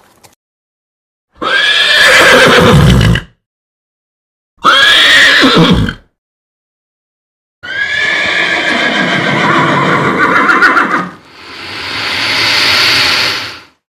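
Horse whinnying three times, loud calls with a wavering, falling pitch separated by short silences, the third call the longest. Near the end comes a rushing sound that swells and fades.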